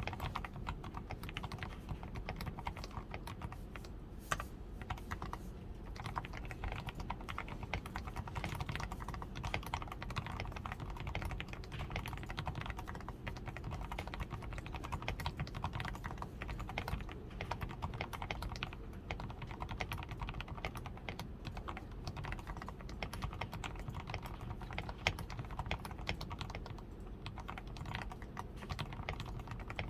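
DAREU A87 Pro mechanical keyboard being typed on without a break, a dense run of keystroke clicks. Its switches are fully lubed with Krytox 105, the PCB is tape-modded, and it wears XDA keycaps with lubed stabilizers.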